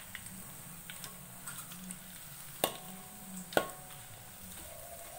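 Battered mushrooms frying in oil in a wok, a steady sizzle as a metal spatula stirs and turns them. The spatula knocks sharply against the wok twice, a little past halfway.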